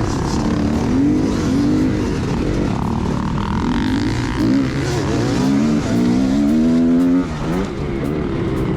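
Motocross dirt bike engine revving up and falling back again and again as it is ridden hard, with a longer climb in pitch that drops off sharply about seven seconds in.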